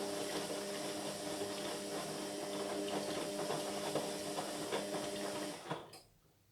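Indesit MyTime washing machine running mid-cycle: a steady motor or pump hum with a wash of water noise and scattered clicks. It cuts off suddenly a little under six seconds in.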